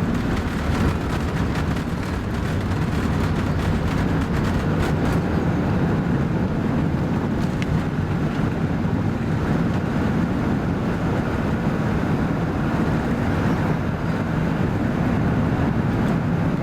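Steady cabin noise of an Airbus A380 heard from a passenger seat: engine and airflow noise, deep and even, with no change in level.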